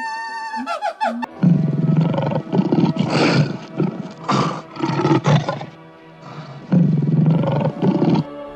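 A large animal roaring: about five rough, low roars in a row, starting about a second in, over steady background music.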